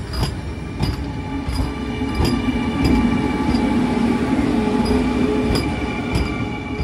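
Vande Bharat Express electric multiple-unit train rolling slowly past, its wheels clicking over rail joints about every two-thirds of a second over a steady rumble and whine.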